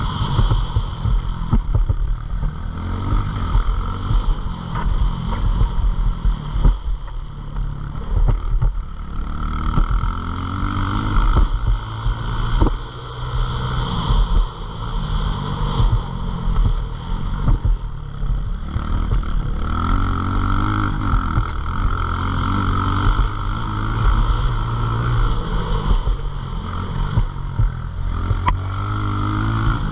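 Pit bike engine running hard, its pitch rising and falling again and again as the bike revs up and the throttle closes, with a heavy low rumble underneath.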